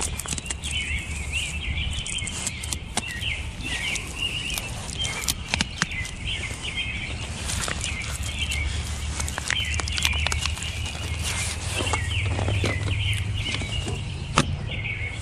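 A flock of small birds chirping and chattering continuously, many calls overlapping, over a low rumble with scattered sharp clicks.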